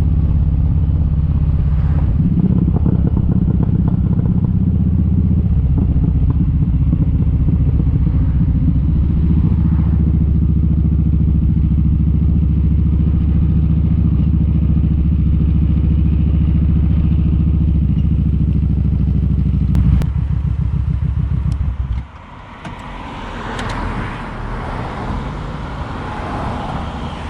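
Kawasaki Vulcan 1700 Vaquero's V-twin engine running steadily at cruising speed. About 22 seconds in, the engine sound drops away abruptly and a rushing road and traffic noise takes over.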